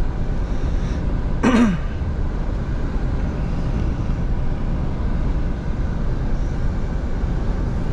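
Scania V8 truck driving on the motorway: a steady low engine and road rumble. About one and a half seconds in there is a brief sound from a person's voice, falling in pitch.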